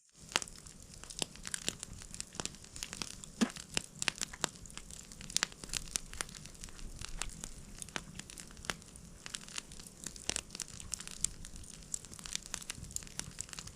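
Someone eating spit-grilled pike close to the microphone: tearing and chewing with many scattered crackly clicks.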